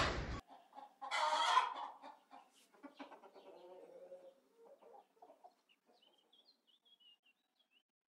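Domestic chickens clucking, with one loud call about a second in and shorter clucks trailing off over the next few seconds, then faint high chirps of small birds. The first half second holds the cut-off tail of a different, louder animal sound.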